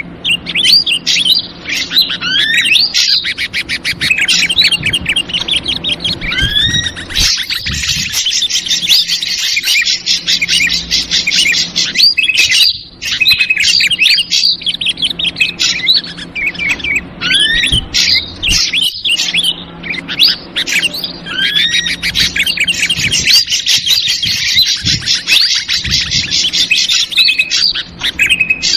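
Bird-lure recording of ashy drongo calls mixed with loud, agitated chattering of yellow-vented bulbuls. It is a dense, continuous stream of chirps, rising whistled notes and rapid trills.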